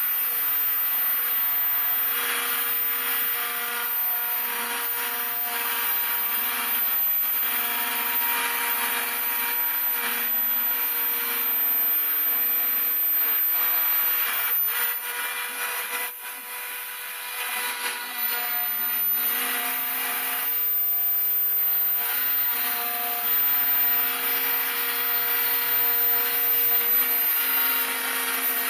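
Homemade CNC router's spindle whining steadily while its cutter mills wing ribs for a model aircraft, with a scraping cutting noise over the whine. The cutting noise drops for a couple of seconds about halfway through, then picks up again.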